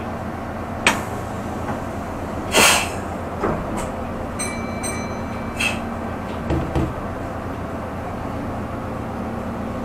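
Meitetsu express train running, heard from on board: a steady low rumble with scattered clicks and knocks. There is a brief hiss about two and a half seconds in, and two short high beeps a little later.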